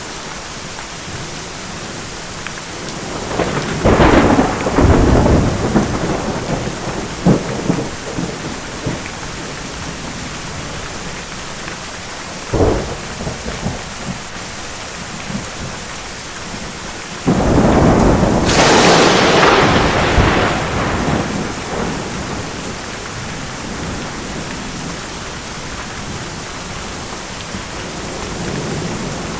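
Steady rain with thunder: a rolling peal about four seconds in, a short sharp crack around twelve seconds, then a sudden loud clap at about seventeen seconds that rumbles away over several seconds.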